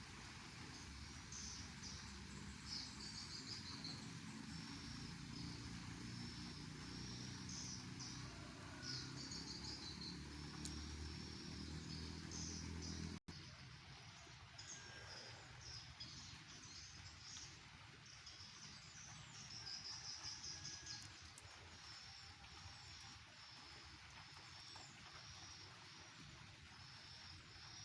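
Faint outdoor ambience of a high-pitched chirping chorus in short, repeated pulses, over a soft hiss. A low rumble under it stops at an abrupt cut about halfway through.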